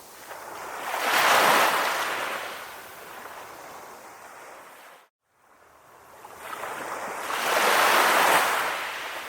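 Calm ocean waves washing in, two waves building and fading about six seconds apart. The sound drops out completely for a moment about halfway through.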